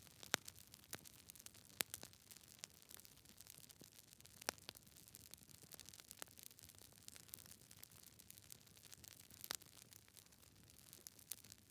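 Log fire in a fireplace crackling: irregular sharp snaps and pops over a faint hiss, a few louder pops standing out.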